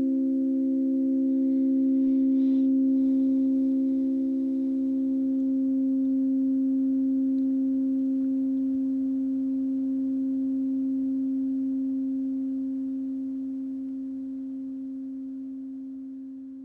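A few steady, pure, sustained sound-healing tones held together as a drone, the lowest one the loudest, slowly fading out over the last few seconds.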